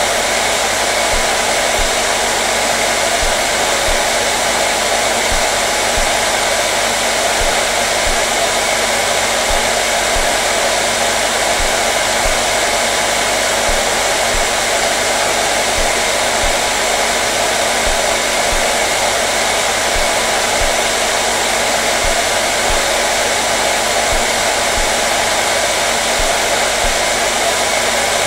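Hair dryer running continuously: a steady, unchanging blow of air with a constant motor hum beneath it.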